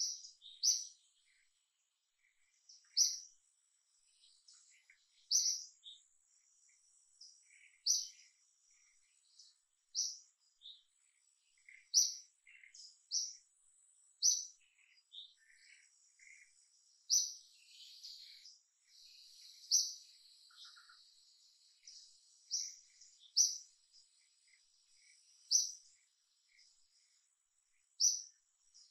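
A bird repeating a short, high chirp every two to three seconds. Softer, scattered chirps from other birds and a faint, steady, high insect whine run underneath.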